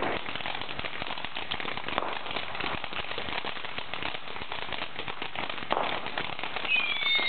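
Fireworks crackling and popping: a dense run of small sharp bangs with a few louder pops, and a high whistle near the end.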